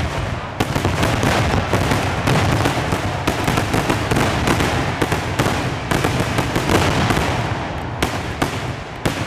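Fireworks finale barrage heard close to the launch site: a dense, continuous run of overlapping bangs and launch reports, thinning out slightly near the end.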